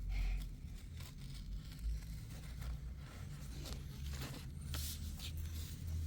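Faint rustling and tearing of packaging being pulled open by hand, with a low handling rumble and a few short louder tears.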